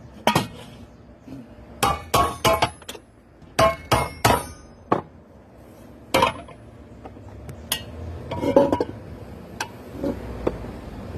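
Metal pressure-cooker parts clinking and knocking as they are handled, about a dozen irregular sharp hits. A few leave a brief high metallic ring.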